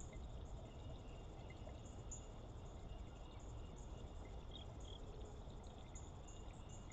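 Faint outdoor dawn ambience: scattered short, high chirps and a few brief thin calls over a steady low rumble.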